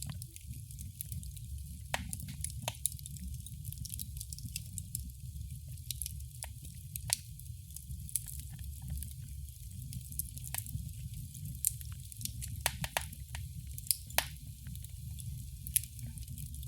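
Wood fire crackling in a fireplace: sharp pops and snaps scattered irregularly, with a quick cluster of several about two-thirds of the way through, over a steady low rumble.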